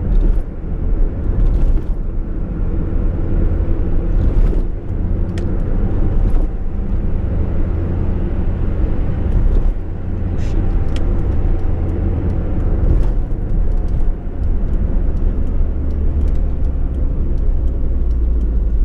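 Fiat Uno's engine running steadily at cruise with road noise, with occasional short knocks and rattles from the car over rough, patched asphalt.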